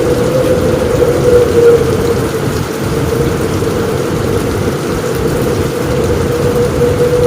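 Heavy rain falling steadily on a roof during a thunderstorm, with a low rumble of thunder underneath.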